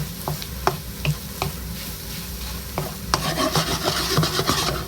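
Chopped vegetables sizzling as they are stir-fried in a wok over high heat, a utensil knocking against the wok at a regular beat. About three seconds in the sizzle turns louder and crackly as the mix is tossed.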